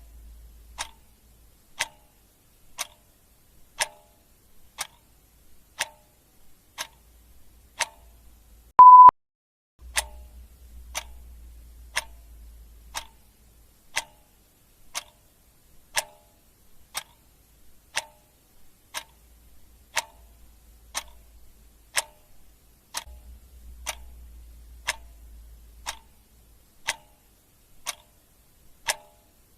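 Clock ticking steadily, about one tick a second. About nine seconds in there is a single short high beep, louder than the ticks.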